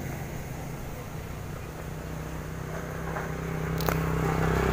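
Motorcycle engine running with a steady low hum that grows louder over the last second or two, with a single sharp click about four seconds in.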